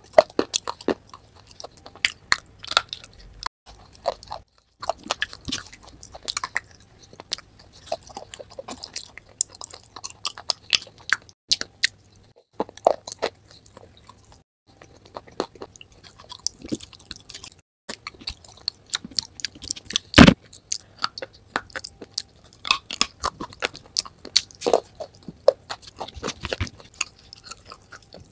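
Close-miked biting and chewing of hard, crumbly clay pieces coated in a creamy white paste. Sharp, irregular crunches come every fraction of a second with brief pauses. The loudest crunch is about twenty seconds in.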